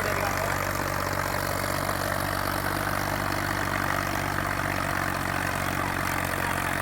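Tractor diesel engine running steadily at a constant speed, with no change in pitch.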